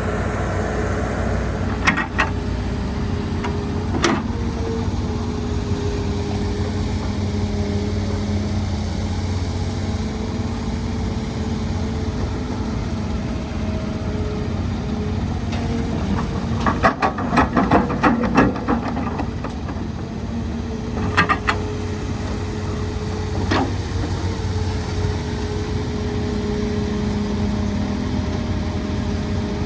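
Excavator's diesel engine running steadily, with sharp metallic clanks and knocks over it: single knocks early, a rapid run of clatter a little past halfway, and a few more later.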